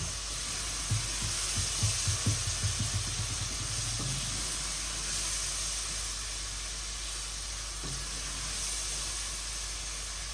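Food frying in oil in a cooking pot, a steady sizzle, with a utensil knocking and scraping against the pot for the first few seconds as it is stirred.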